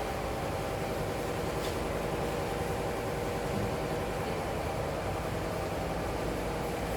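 Double-head aluminium cutting saw running with a steady motor hum, even in level, with no cut or impact heard.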